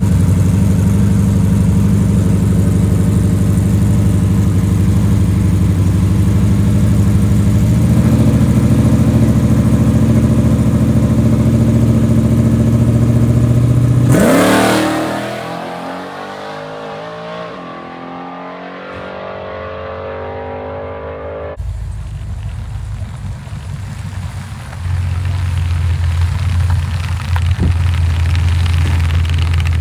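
Chevy S10 drag truck's engine running hard at full throttle down the strip, then lifting off about halfway through, the note dropping sharply and falling away as the truck coasts. Later the engine runs again at a steady lower note.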